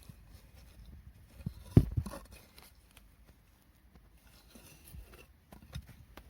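A few close knocks and thumps with light rustling, the loudest just before two seconds in, as of gear being handled.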